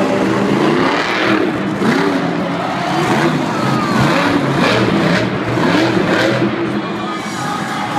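Monster truck engines revving, their pitch rising and falling again and again.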